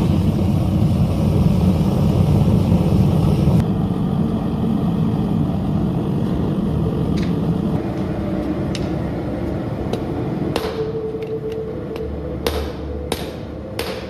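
A steady low roar fills the first several seconds and fades. About ten seconds in, hammer blows on an anvil begin, roughly two a second, each with a ringing tone: steel being forged.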